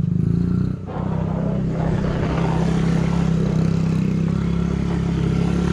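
Motorcycle engine running steadily at low speed, with a brief drop in level just under a second in.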